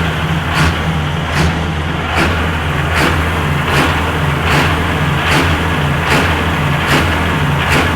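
An engine running steadily, with a sharp regular pulse a little more than once a second.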